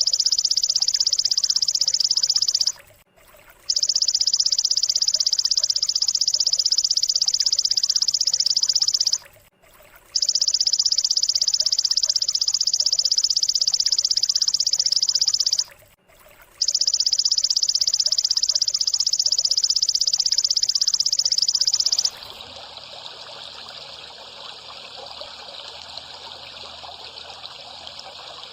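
A rapid, high-pitched buzzing trill, as used in a songbird-training (masteran) recording, in four long bouts of about six seconds with short breaks between them. About two-thirds of the way in, the trill stops and a quieter, steady trickling-water sound takes over.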